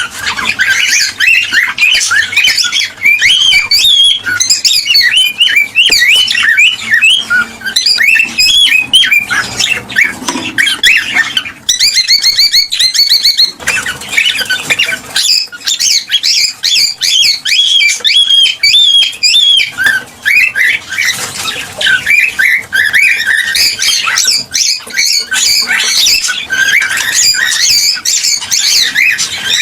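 Cockatiels chirping, whistling and squawking in a continuous, busy stream of rapid calls, with a short fast trill about twelve seconds in.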